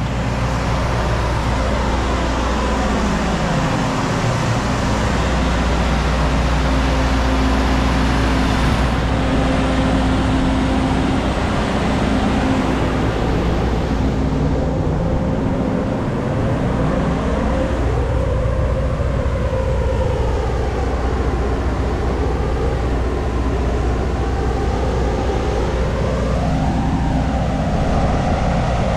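Power saw cutting through a brick and block wall, running continuously under load. The hiss of the cut thins out about a third of the way through, and later the pitch sags and recovers twice as the blade bites.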